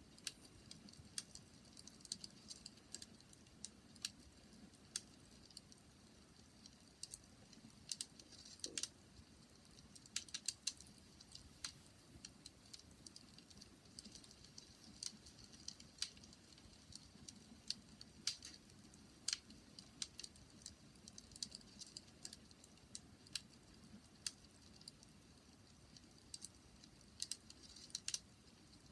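Wood fire crackling, faint: irregular sharp pops and snaps from the burning wood, a few each second, over a soft low hiss.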